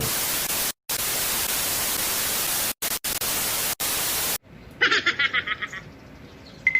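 Loud static hiss, like an edited-in TV-static effect, cut by several short dropouts and stopping abruptly about four and a half seconds in. A quieter burst of rapid pulsing follows, and a brief steady beep-like tone comes near the end.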